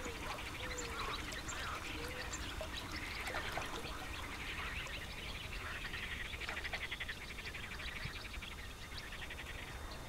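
Birds calling and chattering in many short chirps, with a run of fast rattling ticks in the middle, over a steady low rumble.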